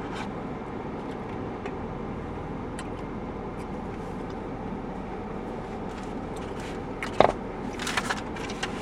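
Car air conditioning running in the cabin with the engine idling: a steady blowing hum. A sharp click about seven seconds in, then some brief rustling near the end.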